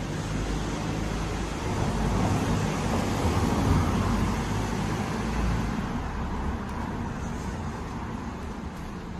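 A road vehicle passing close by: a rumble of engine and tyres that grows louder to a peak about three to four seconds in, then fades away.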